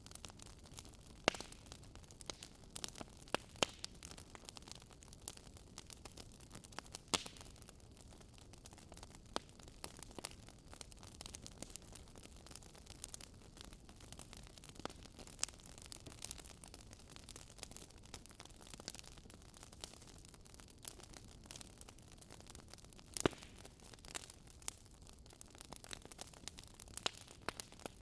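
Campfire burning: wood crackling with irregular sharp pops over a low hiss.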